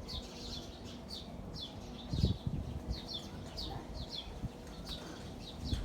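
Small birds chirping: a steady run of short, falling chirps, several a second, over a low rumble, with a low thump about two seconds in.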